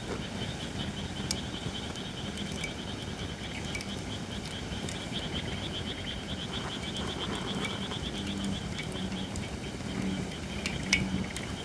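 Holly firewood burning in a campfire, crackling with scattered sharp pops, the loudest just before the end. Behind it runs a steady chorus of frogs: a fast high trill and low repeated calls.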